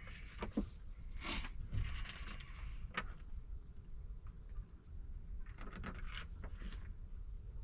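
Faint handling noises: a few soft clicks and rustles over a steady low background rumble.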